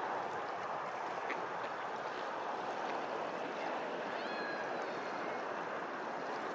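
Steady rush of flowing water, like a stream, with a brief faint high chirp about four seconds in.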